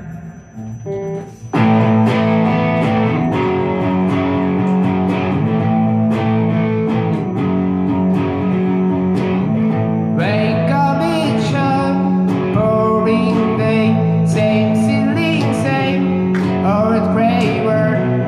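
A live band starts a song: after a brief quieter moment, guitar-led music comes in suddenly about a second and a half in and plays on steadily, and a singing voice joins about ten seconds in.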